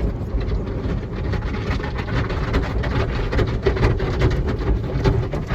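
Automatic car wash machinery working over a car, heard from inside the closed cabin: a steady low rumble and hum with a dense, irregular spatter of small hits on the body.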